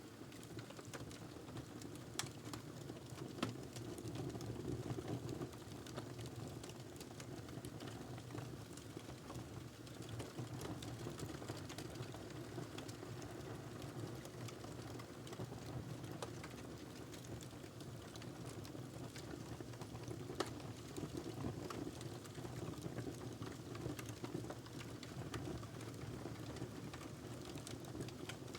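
Fireplace fire crackling: a steady low rush of flame with frequent small snaps and pops, and a few sharper pops at about two, three and a half, and twenty seconds in.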